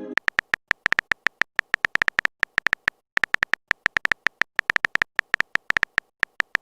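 Rapid short electronic beeping ticks, about eight a second, with a brief break about three seconds in: a text-typing sound effect for chat messages.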